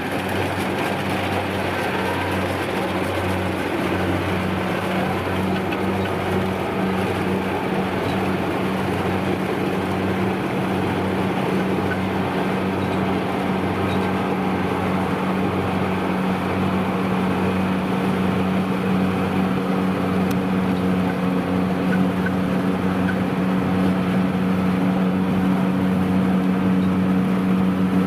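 Kubota DC-93 combine harvester running steadily, its diesel engine and machinery giving a constant low drone that grows slightly louder near the end.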